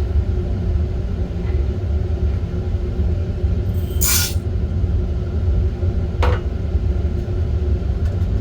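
Steady low rumble from the heat source of a small coffee-roasting setup, with a brief hiss about four seconds in and a short click about six seconds in.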